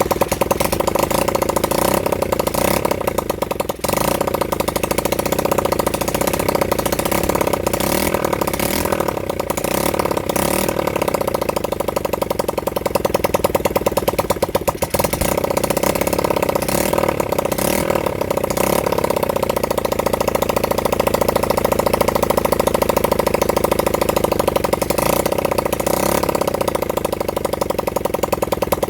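Honda CB100N's small single-cylinder four-stroke engine running steadily on its first run in over 20 years, with its revs rising and falling a little now and then.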